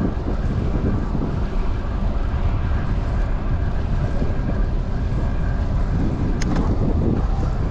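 Wind buffeting the microphone while riding a bicycle: a loud, steady, low rumbling rush, with one brief sharp click about six and a half seconds in.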